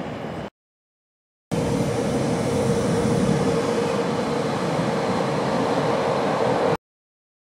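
Train running through the station: a loud, steady rumble of wheels on rails with a steady hum over it. The sound cuts out completely for about a second near the start and again near the end.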